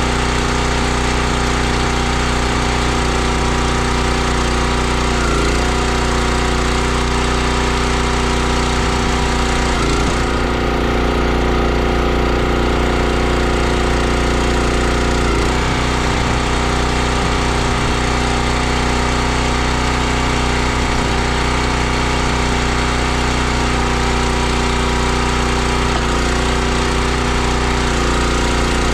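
Gas log splitter's small engine running steadily, its pitch sagging briefly every few seconds as the hydraulic ram takes the load of splitting a round.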